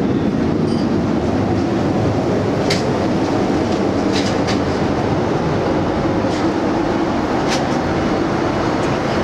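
Steady cabin noise of a Boeing 787 Dreamliner in flight: the even low rush of airflow and engines, with a few faint clicks from the cabin.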